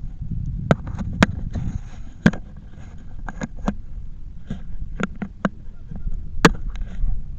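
Steady low rumble with about a dozen sharp, irregular knocks and clicks, the loudest about six and a half seconds in.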